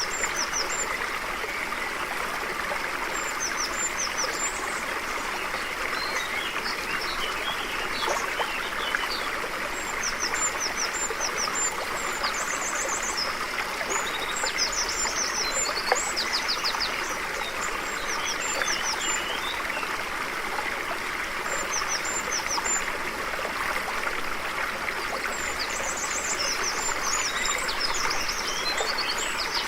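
Stream flowing steadily over stones, with birds chirping over it: short high calls in quick runs that come back every few seconds.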